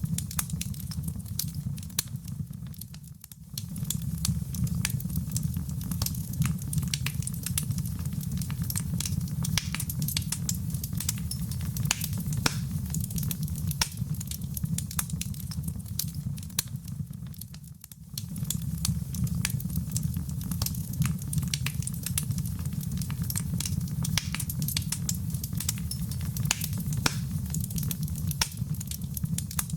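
Wood fire crackling, with many sharp pops and snaps over a steady low rumble of the flames. The sound dips briefly twice, about three seconds in and again near eighteen seconds.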